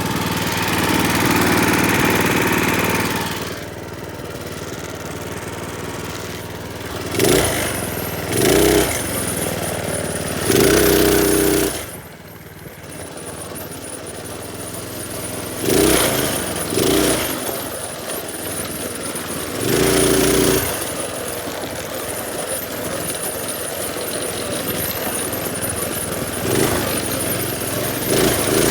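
Minibike's small engine running under way, with the throttle opened hard in short surges of about a second, about eight times, dropping back to a lower steady note between them.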